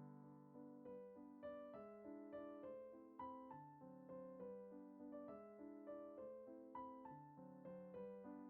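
Quiet background piano music: a gentle melody of single notes, a few a second, over held lower chords.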